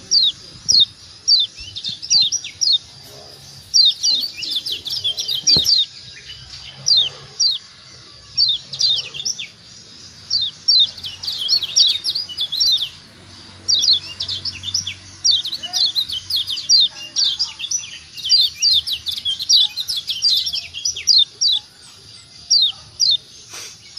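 Kecial kuning (Lombok yellow white-eye) giving rapid 'ciak ciak' calls: short, high, quickly falling chirps in fast clusters with brief pauses between them, the call used to stir other white-eyes into singing.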